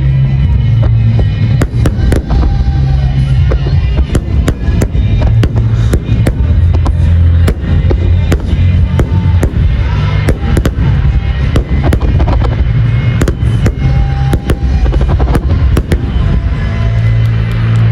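A dense barrage of aerial fireworks exploding, with sharp bangs coming several times a second over a continuous low rumble. Music plays along with the bursts.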